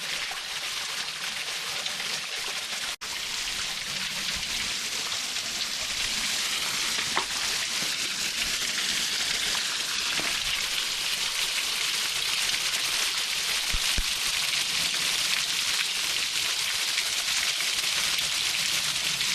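Small creek waterfall splashing steadily, a close, even rush of falling water, with a very brief break about three seconds in.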